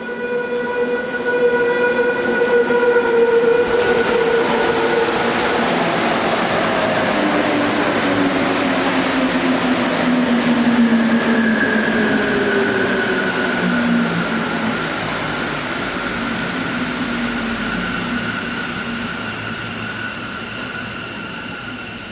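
Mexico City Metro NM-16 train entering a station: a loud, steady rush of the passing cars with the electric traction drive whining in several tones, some gliding down in pitch as the train slows, then fading gradually as it comes to a stop.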